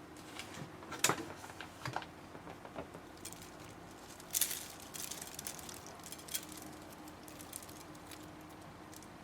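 Slime being squeezed and worked by hand, giving irregular small clicks and crackling pops as air pockets burst. The loudest pops come about a second in and at about four and a half seconds, and the clicking thins out near the end.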